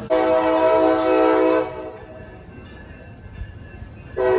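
Commuter train locomotive's air horn sounding a chord of several notes at once: one blast of about a second and a half, then a second blast starting near the end.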